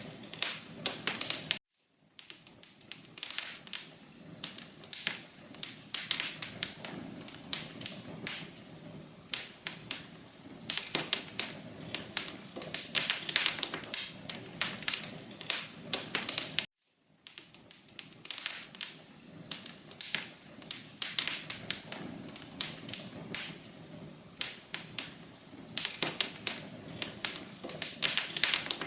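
Wood fire crackling in a fireplace: a dense, irregular run of sharp pops and snaps. The sound drops out briefly twice, once near the start and once about halfway.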